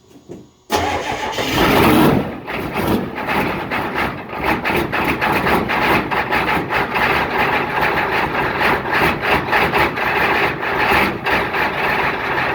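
An engine starting up about a second in, then running with an uneven, pulsing beat.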